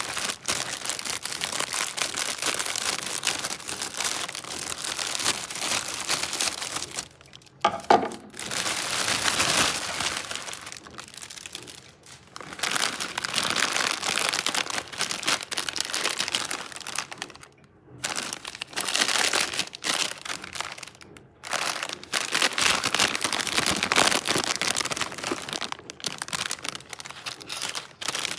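Plastic Lay's chip bag crinkling and crackling as it is handled, in long stretches broken by a few short pauses, with one sharp crack about eight seconds in.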